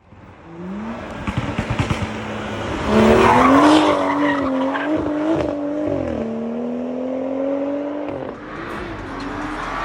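BMW N55 turbocharged inline-six running through an AWE and Dinan exhaust, accelerating hard: the engine note climbs, drops suddenly about six seconds in as it shifts up, climbs again, then falls away near the end. A quick run of sharp crackles comes a little after one second.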